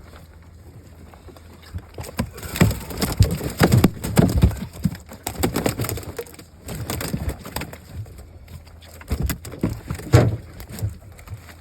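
Large fish flopping and slapping in a boat: irregular bouts of rapid wet thumps and knocks, starting about two seconds in and dying away near the end.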